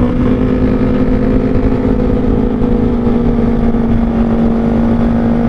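Kawasaki ZX-25R 250 cc inline-four with an R9 Zeta aftermarket exhaust, heard from the rider's seat, running at a steady high rpm while cruising. Its note holds almost constant pitch throughout.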